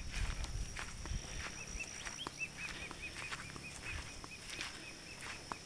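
A bird calling a fast run of short, evenly repeated chirps, about six a second, from about two seconds in, over scattered footstep crunches on a mountain footpath.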